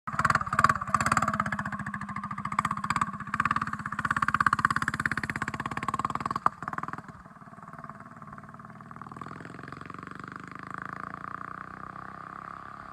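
Mini bike's 212cc Predator single-cylinder engine running with a rapid, even firing beat. About seven seconds in it drops sharply in loudness and goes on quieter.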